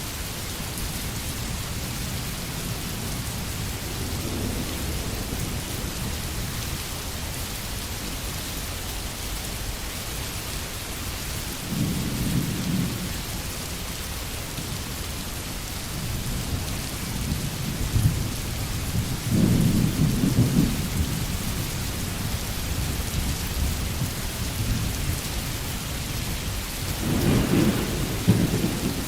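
Steady rain drumming on a tin roof, with rolls of thunder rumbling low several times, the strongest near the end.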